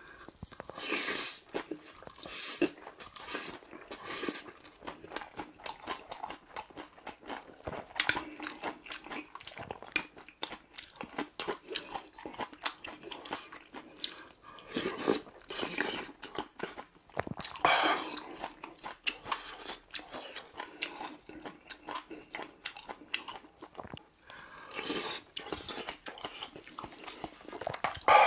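Close, wet chewing, crunching and lip-smacking of someone eating large spoonfuls of bibimbap mixed with crunchy raw radish salad, in many short irregular mouth clicks. Near the end there is a sharp loud clatter of a wooden spoon stirring in the brass mixing bowl.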